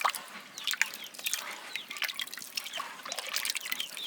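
Water trickling and dripping, with many small irregular splashes and clicks.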